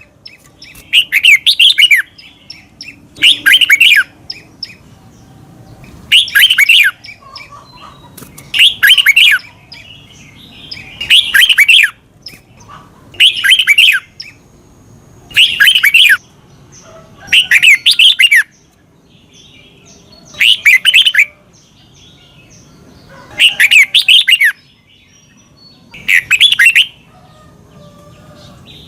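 Red-whiskered bulbul singing the same short warbled phrase over and over, about once every two to three seconds.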